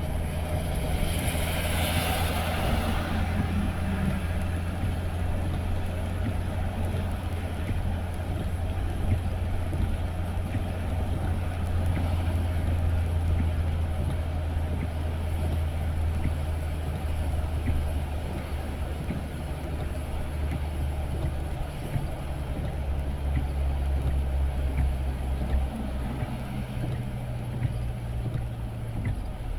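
Car driving on a wet road: steady low engine and tyre rumble, its pitch shifting a little about two-thirds of the way through. A brief rushing swell about two seconds in.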